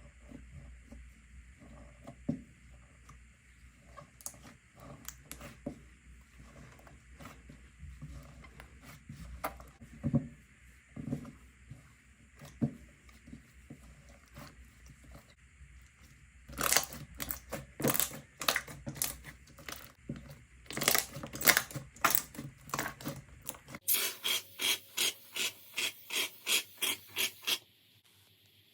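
Slime being squeezed and pressed by hand, giving soft sticky clicks at first, then louder crackling pops. Near the end comes a fast, even run of pops, about four a second, which stops suddenly.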